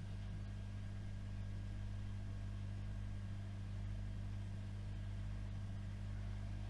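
AEG Öko-Lavamat washing machine running with a steady low motor hum that does not change in pitch or level.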